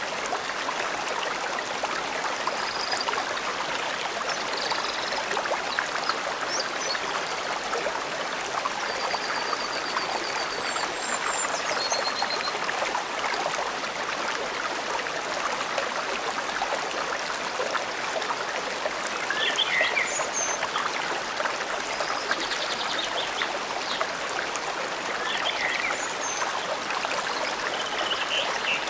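A stream running steadily over stones, with songbirds calling now and then above it, among them a fast trill about ten seconds in.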